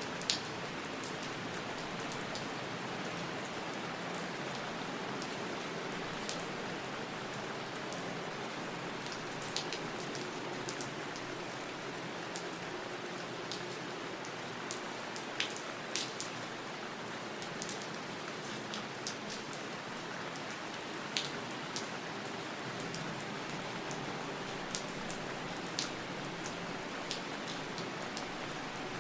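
Steady rain falling, a continuous even hiss with scattered sharper drip ticks, a few of them louder than the rest.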